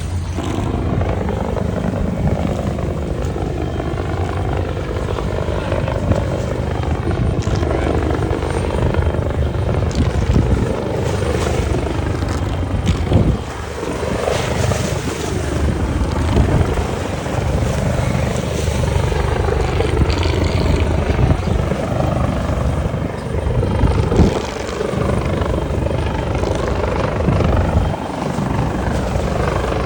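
Engine running at a steady drone, loud throughout, its tone shifting in slow sweeping waves.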